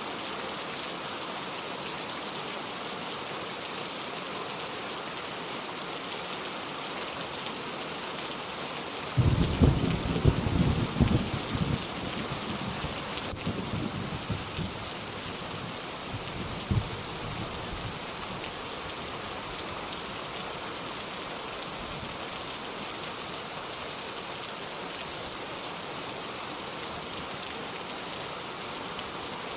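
Steady rain falling, an even hiss throughout. About nine seconds in, a loud thunderclap breaks in and rumbles for several seconds, with a shorter peal a few seconds later.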